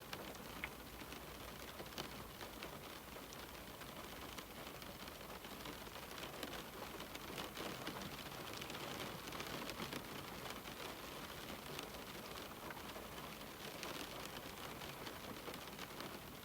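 Rain falling on a window: a steady patter with many small, sharp drop ticks.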